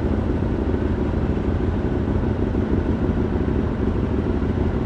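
Engine running steadily at idle, a dense low rumble that stays even throughout.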